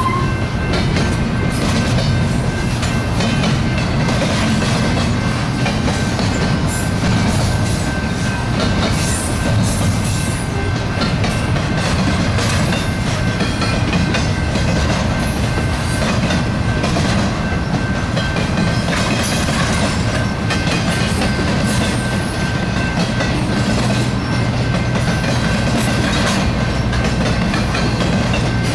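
Intermodal freight train cars rolling past at steady speed: wheels rumbling and clacking over the rail joints, with a thin steady high tone running through it.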